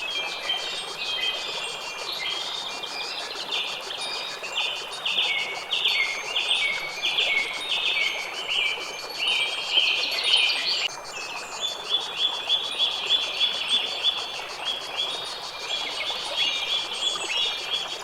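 Birds chirping in fast runs of short repeated notes over a faint, steady high insect trill.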